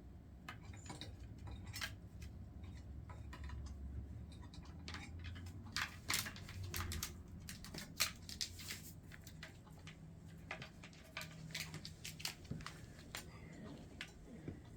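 Irregular light clicks and taps of an African grey parrot's beak and feet working over a toy, over a faint low hum.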